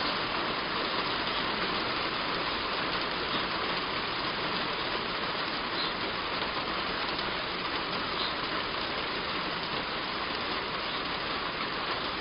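Heavy rain falling steadily on a roof, an even, dense hiss. A few faint, short bird chirps come through the rain.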